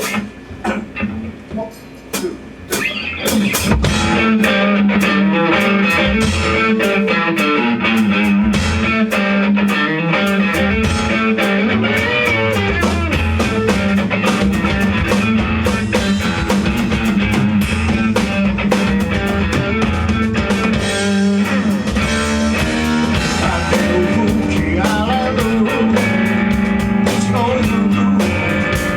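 Rock band playing live with electric guitar and drums: a few separate hits for the first three seconds or so, then the full band comes in and plays on steadily.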